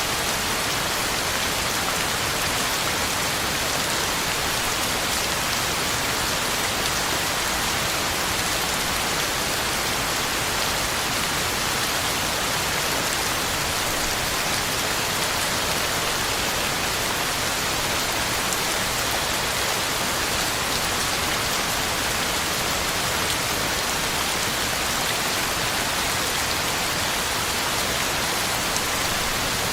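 Heavy rain falling steadily on the ground and leaves, an even hiss of drops.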